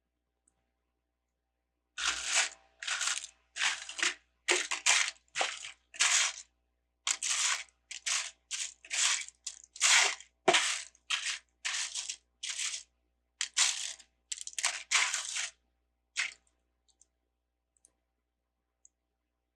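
Plastic LEGO parts being handled and rummaged through by hand: a run of short crinkling, scraping rustles, about one or two a second, that stops about three-quarters of the way through, followed by a few faint ticks.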